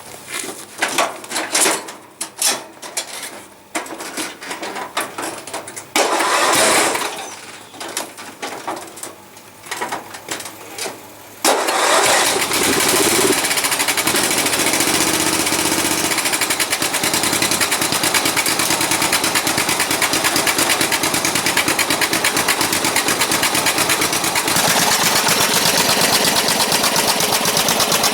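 Lawn mower engine starting about eleven seconds in, after some clattering and handling noise. It then runs steadily with a fast, even exhaust pulse through a homemade welded exhaust of 90-degree bends that is meant to work as a muffler.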